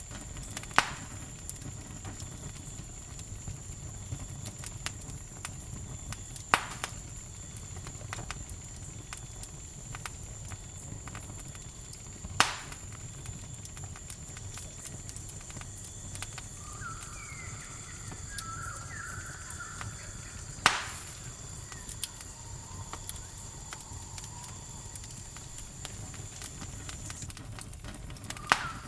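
Campfire burning with a low steady rumble and four sharp crackling pops, several seconds apart. A steady high insect trill runs under it until near the end, and short bird calls come a few times in the second half.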